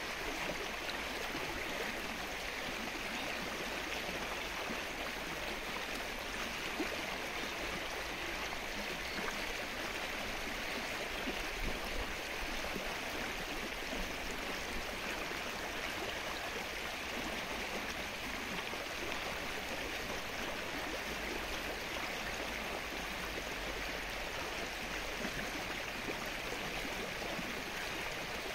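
Steady rain falling on a lake's still surface: an even hiss with a fine patter of drops.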